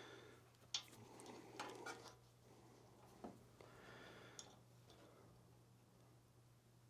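Near silence with a few faint clicks and light scraping from a small screwdriver working the emulsion tube out of a snowblower carburetor.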